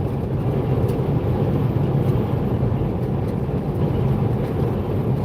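Semi-truck cab at highway speed: a steady low engine drone with road noise.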